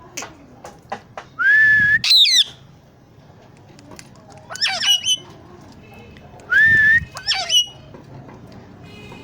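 Pet parrot giving two rising whistles, each followed by a quick run of short squawky chattering calls.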